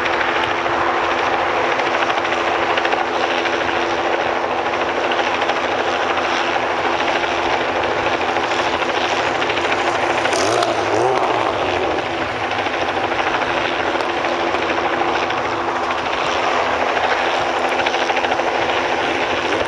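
A steady mechanical drone: a constant low hum under a wide hiss, with no breaks.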